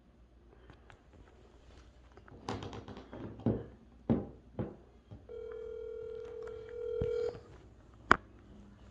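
Several knocks and clicks of handling, then a phone's steady call tone held for about two seconds, and a single sharp click near the end.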